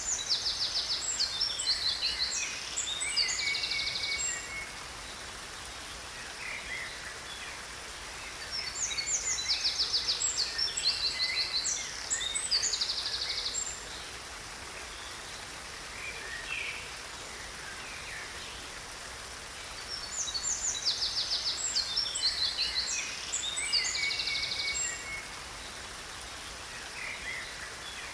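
A songbird singing in three bouts of a few seconds each, quick high chirps and rapid trills, over the steady rush of a waterfall.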